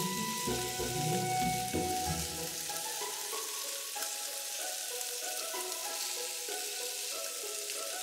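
Meat-wrapped pumpkin rolls, sausages, broccoli and lotus root sizzling steadily in a frying pan. Light background music plays over it, its lower notes dropping out about three seconds in.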